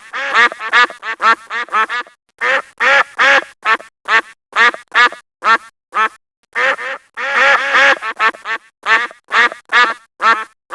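Domestic duck quacking in rapid runs of short nasal quacks, with a few brief pauses between the runs.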